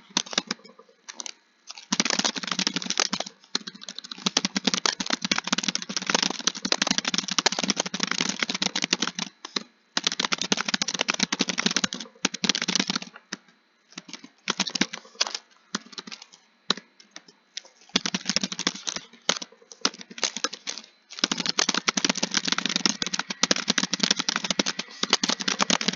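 Fast typing on a computer keyboard: rapid key clicks in long runs, broken by short pauses several times.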